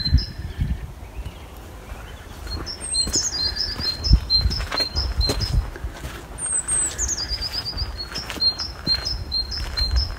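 A songbird singing: runs of short high chirps, and twice a quick phrase that falls from high to lower notes. Under it is a low rumble with a few short knocks.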